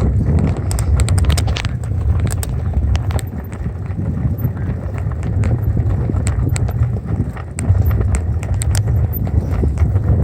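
Wind rumbling on the microphone of a moving bicycle, with scattered clicks and light rattles from the bike as it rolls.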